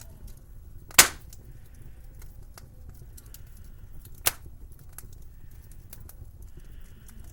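Wood fire crackling with many small ticks over a low steady rumble, and two sharp loud pops, about a second in and again about three seconds later, the first the louder.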